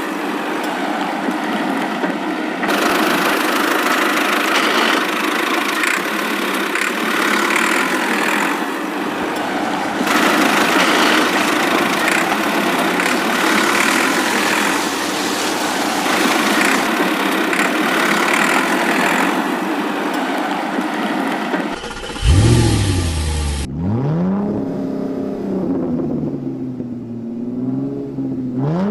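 Vehicle engine sound: a steady mechanical drone with a faint even pulsing, then about 22 seconds in it changes abruptly to an engine revving, with the pitch rising and then wavering up and down.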